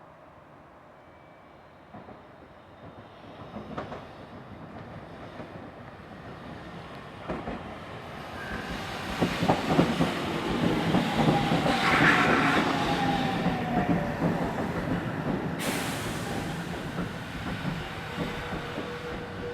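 A train draws near and goes by on the rails, growing louder to a peak about halfway through and then slowly fading. Its wheels click over the rail joints, and a short wheel squeal and a falling whine come at the loudest point. A high hiss comes on suddenly near the end.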